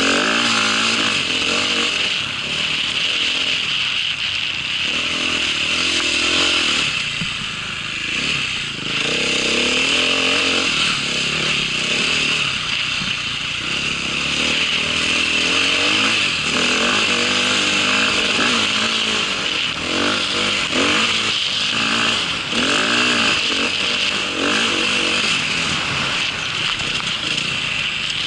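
Small vehicle engine running continuously while being ridden, its pitch rising and falling again and again as the throttle changes.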